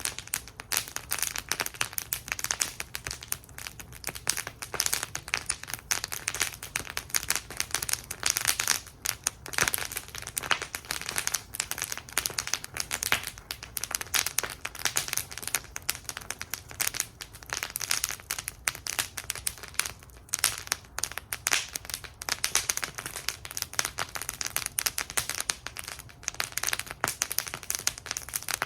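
Wood fire burning in a fire bowl, crackling continuously with dense, irregular sharp pops and snaps over a faint low rumble.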